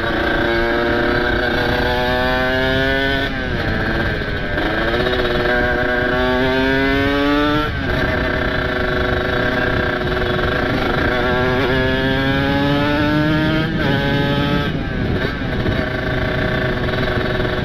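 Kawasaki Ninja RR two-stroke single with a ported engine and open aftermarket exhaust, ridden hard and fully warmed up. Its pitch climbs as it revs, then drops sharply at gear changes about 3, 8 and 14 seconds in, with a long steady pull in between.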